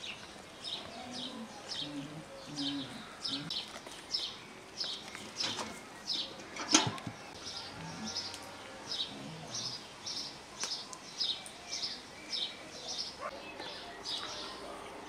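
A small bird chirping over and over, short high notes about two or three a second, with one sharp click about seven seconds in.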